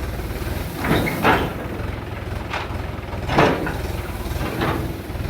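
Tractor engine running steadily with a low throb, with four short, louder noises over it.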